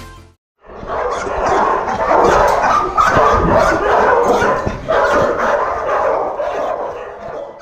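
Dogs barking and yipping in a rapid, continuous clamour, starting about half a second in after a brief silence.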